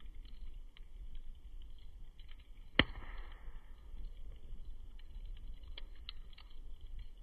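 Wood fire crackling with scattered small pops, and one sharp loud pop nearly three seconds in.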